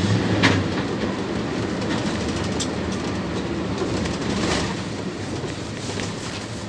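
PAZ 32054 bus riding along, heard from inside the passenger cabin: a steady low engine hum with road noise, broken by a few sharp rattling clacks from the body. It eases slightly quieter near the end.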